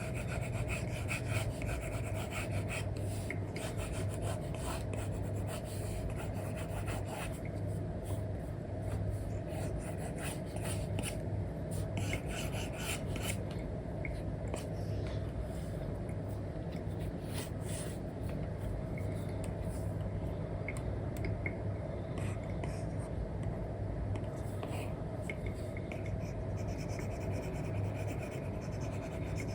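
Apple Pencil nib scratching and rubbing across a paper-like screen film on an iPad, in continuous, irregular drawing and colouring strokes, over a steady low hum.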